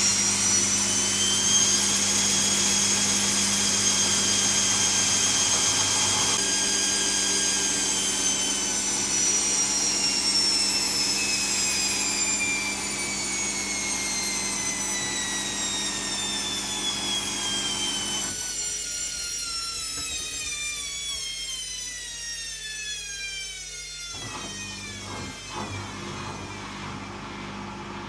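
Zanussi ZKN7120L washing machine's motor and drum slowing down from a fast spin. A high whine falls steadily in pitch and fades, with a few light clicks near the end.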